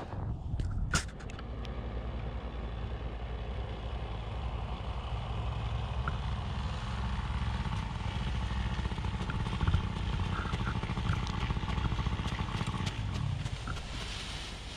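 A paramotor's small engine running steadily.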